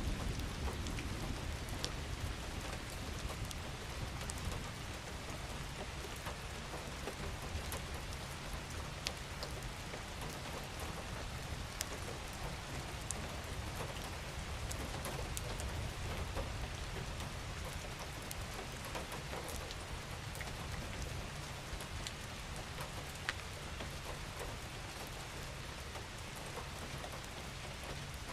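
Steady rainfall, a continuous hiss with scattered sharp ticks of individual drops over a low rumble.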